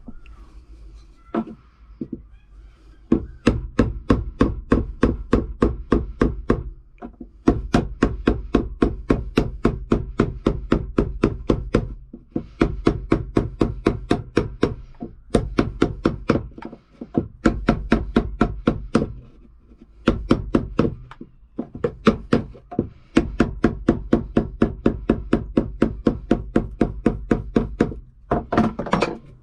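Rapid, even knocking, about four to five strikes a second, in runs of several seconds broken by short pauses.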